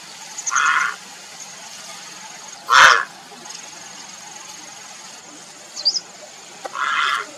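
Grey heron giving short, harsh croaking calls, three of them, the loudest a brief one just before the middle. A faint steady high whine runs underneath, and a small chirp comes near the end.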